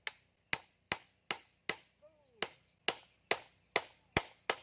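A run of sharp, evenly spaced strikes of a hand tool, about two and a half a second, with a short break about two seconds in, typical of chopping or hammering in building work.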